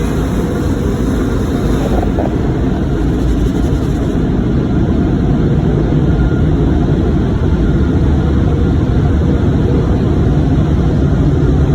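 Automatic car wash running over a car: a loud, steady rushing noise of spraying water, brushes or dryer blowers.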